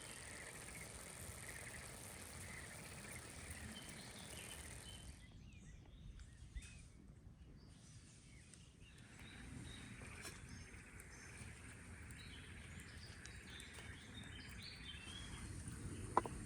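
Quiet outdoor ambience with a steady high-pitched hiss that cuts off abruptly about five seconds in. After it comes quieter background with scattered small clicks and one sharp click near the end.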